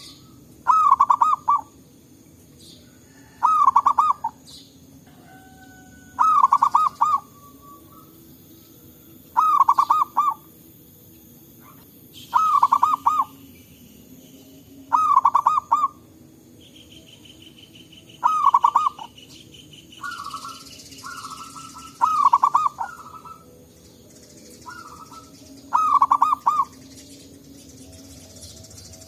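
Zebra dove cooing: nine short rippling coo phrases, each under a second long, repeated about every three seconds.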